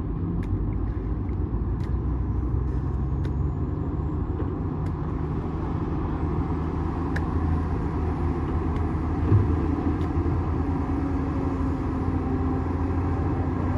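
Bulldozer's diesel engine running steadily, deep and unbroken, with faint clicks now and then and a brief knock about nine seconds in.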